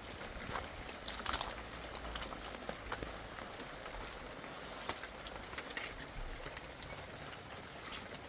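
Steady rain falling, with scattered sharp taps of individual drops close by.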